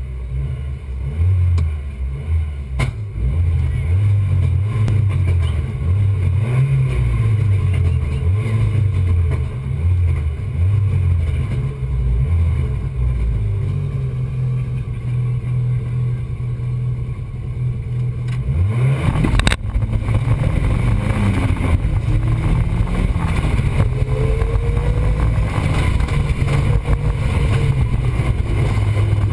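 Ford Escort RS Cosworth's turbocharged four-cylinder engine heard from inside the cabin. It idles with short rises and falls in revs, then about two-thirds of the way through the revs climb as the car pulls away. After that it runs hard, the revs rising and dropping through the gear changes.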